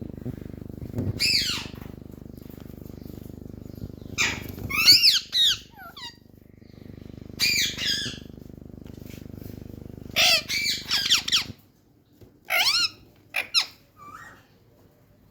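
Pet parrots squawking in a string of short, high-pitched calls, about seven bursts with gaps between them. A steady low hum behind them stops suddenly about three-quarters of the way through.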